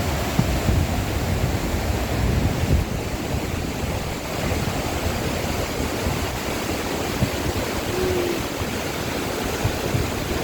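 Mountain stream rushing, a loud, steady wash of water noise.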